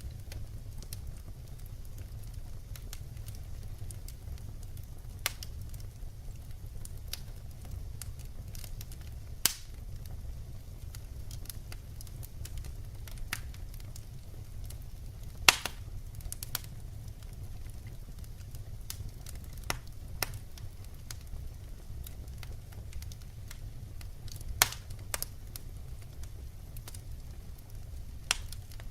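Wood fire burning: a low steady rumble with scattered sharp crackles and pops, a few louder ones, the loudest about halfway through.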